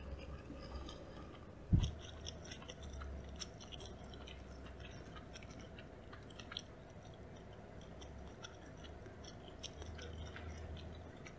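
Mouth sounds of someone chewing yellowtail nigiri sushi: soft, scattered wet clicks and smacks. One low thump about two seconds in.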